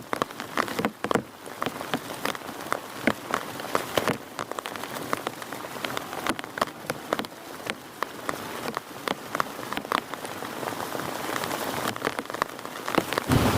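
Rain falling steadily, with many separate large drops striking close by at irregular moments over a constant hiss of rainfall.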